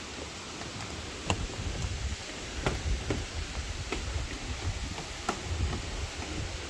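Steady rush of falling and running water from the waterfall and stream, with a few sharp clicks scattered through it.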